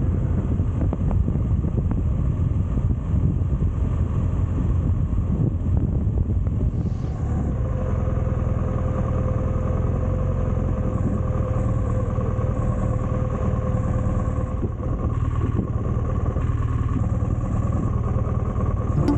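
Motorcycle engine running steadily on the move, with a steady low rumble; its note shifts about seven seconds in.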